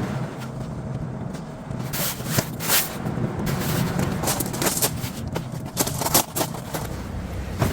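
Tent-pitching handling noises: a run of short knocks, clicks and rustles from the tipi tent's fabric and tripod poles being handled, over a steady low background noise.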